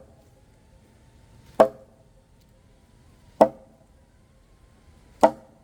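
Three sharp blows of a hand tool into wood, evenly spaced about two seconds apart, each with a brief ringing tone.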